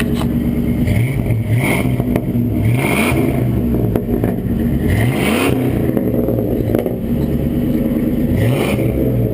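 Pickup truck engine running through a Flowmaster muffler and exhaust stacks, with the catalytic converter removed, idling and revved up and back down several times.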